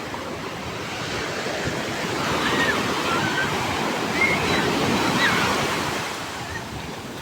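Rough sea surf breaking on the shore, a steady wash of waves that swells louder in the middle and eases again near the end.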